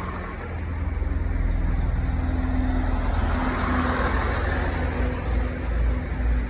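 Diesel multiple unit's underfloor diesel engines running at the platform, a deep steady rumble that swells over the first second and then holds.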